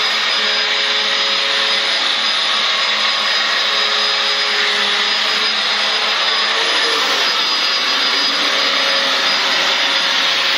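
Vacuum cleaner motor running steadily, with a thin high whine over its rushing noise.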